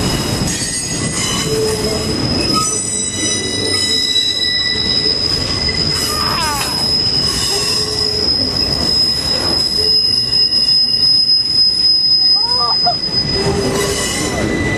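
Union Pacific freight cars rolling past on steel wheels, squealing in several high steady tones over a continuous low rumble.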